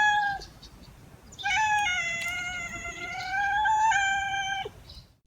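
Domestic cat meowing: the tail of a short meow, then after a pause one long drawn-out meow of about three seconds that wavers slightly in pitch.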